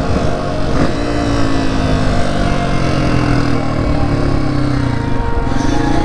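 2020 Honda CRF250F's single-cylinder four-stroke engine running under way. The revs break briefly about a second in, ease slowly down, then climb again near the end.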